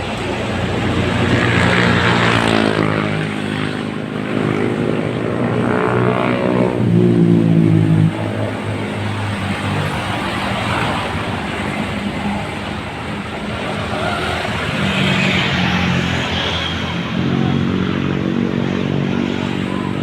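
Heavy truck engines running as trucks pass close by, the engine note rising and falling in pitch. The loudest pass drops off suddenly about eight seconds in.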